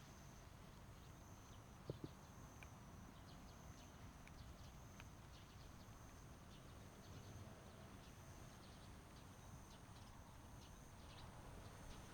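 Near silence: faint outdoor background hiss with a faint high tone pulsing on and off at an even pace and scattered soft ticks, including two light knocks about two seconds in.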